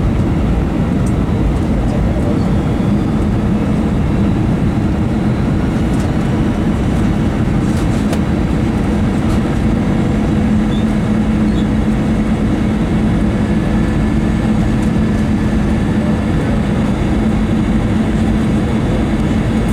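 Steady cabin noise inside an Airbus A321 airliner in flight on approach: a constant roar of engines and rushing air with a steady low hum.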